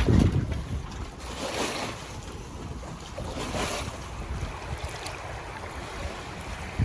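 Wind buffeting the microphone over open water, strongest at the very start, with a few brief sloshing swishes of water.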